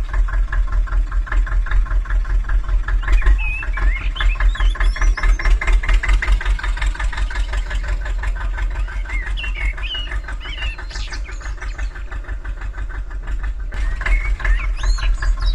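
Small engine of a miniature DIY tractor running with an even, rapid chugging, a little softer about two-thirds of the way through, with faint high chirps over it.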